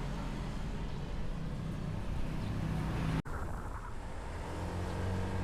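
Motorbike engine running steadily while riding, recorded on the bike, with road and wind noise. The sound cuts out for an instant a little past halfway, then carries on.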